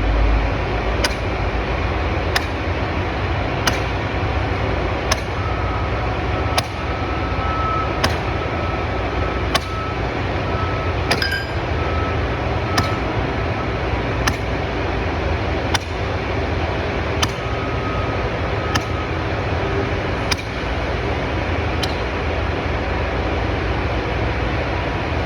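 12 lb sledgehammer driving steel pins for concrete slab forms: sharp metallic strikes at an even pace, about one every second and a half, over a steady low rumble.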